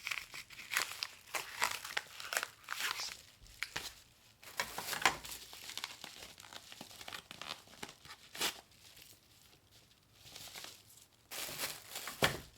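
Packaging material being handled and crumpled: irregular crinkling and rustling with sharp crackles, in bursts, loudest about five seconds in and near the end.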